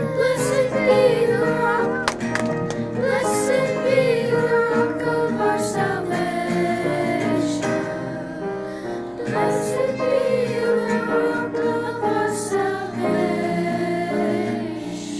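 A song: voices singing a melody over instrumental accompaniment.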